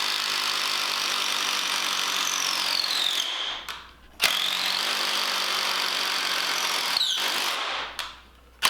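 Handheld electric power tool running at full speed in three runs, each a few seconds long. Its high whine sags in pitch just before each release and climbs again as the motor spins back up.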